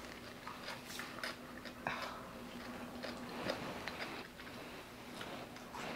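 Close-up eating sounds from a first forkful of raw-cabbage coleslaw: faint, scattered mouth clicks and crunches.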